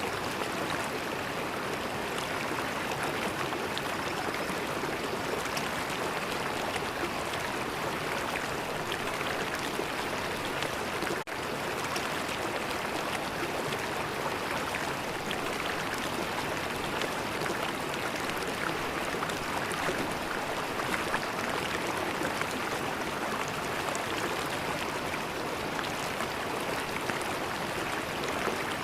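River water flowing, a steady rush of water noise, with a momentary break about eleven seconds in.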